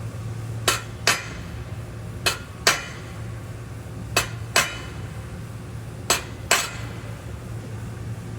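A hammer striking a steel welding test plate with sharp metallic strikes, in four pairs of two blows, over a steady low hum.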